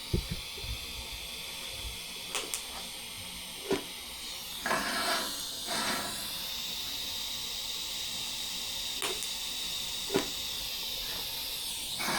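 TIG welding arc on stainless steel, a steady high hiss as tacks are laid. There are several sharp clicks along the way.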